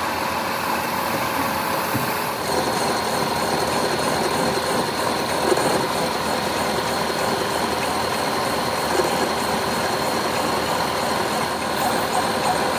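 Workshop machinery running steadily, a dense mechanical noise with a steady whine; a higher tone joins about two seconds in.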